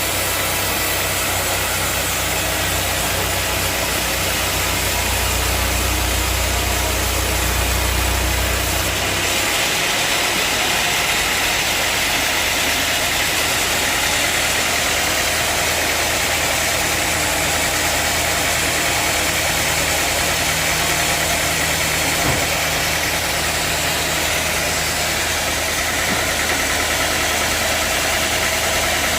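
Band sawmill running steadily with a loud mechanical noise. About ten seconds in, the low hum falls away and a higher hiss rises and carries on.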